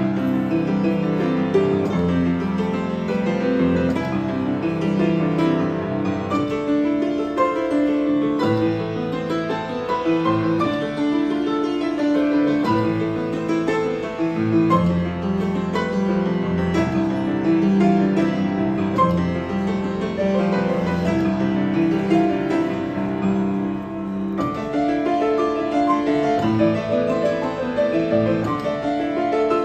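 Acoustic piano being played: a continuous piece with a melody over full chords, with no break.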